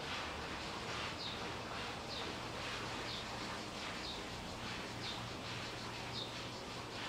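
A bird chirping: one short, high chirp about once a second, evenly spaced, over a steady background hiss.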